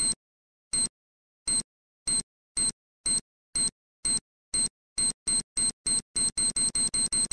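Sound effect of a bomb timer counting down: short, high-pitched electronic beeps that speed up steadily until they come in quick succession near the end.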